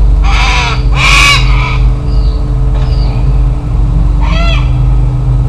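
Cockatoos screeching: two harsh calls close together, then another about four seconds in, over a steady low engine hum.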